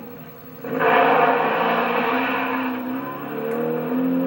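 A car engine accelerating and driving on an old film's soundtrack, played through a vintage television's speaker. It comes in suddenly about a second in, and the engine pitch rises and falls near the end.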